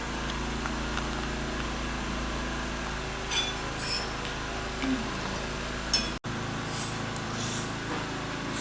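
A few faint clinks of cutlery on dishes over a steady background hum.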